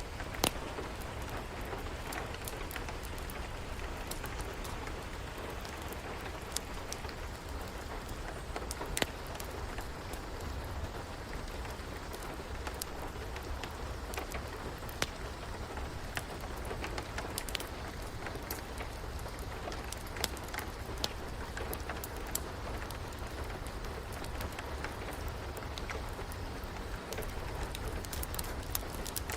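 Steady rain mixed with a fireplace crackling: an even hiss with scattered sharp pops.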